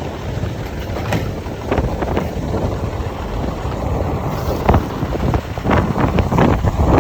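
Wind buffeting the microphone over a Mack garbage truck running, with several sharp knocks and clatters, most of them in the last couple of seconds.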